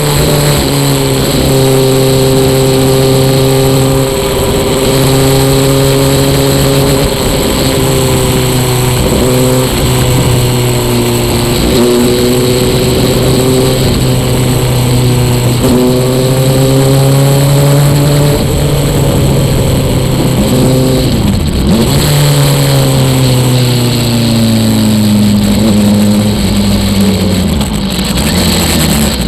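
Sport motorcycle engine running at steady high revs under heavy wind rush, dipping briefly a few times. Over the last several seconds the engine note falls steadily as the bike slows down.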